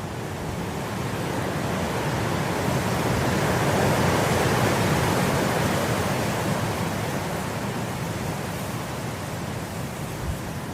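Wind blowing through grass, a steady rushing that builds into a gust about four seconds in and eases off again.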